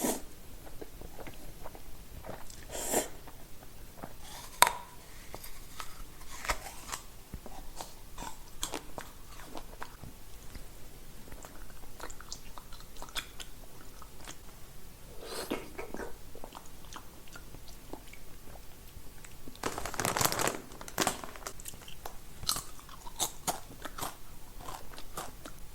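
Close-up eating sounds of a mukbang of green foods: irregular crunchy bites and chewing. The sharpest crunch comes about four and a half seconds in, and a longer noisy stretch of chewing comes around two-thirds of the way through.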